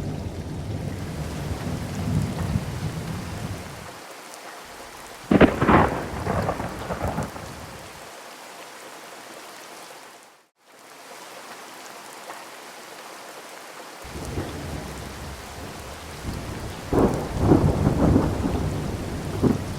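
Monsoon thunderstorm: rain falling steadily with thunder. A low rolling rumble gives way to a sharp thunderclap about five seconds in. After a stretch of plain rain hiss, another round of rumbling and cracks comes in the last few seconds.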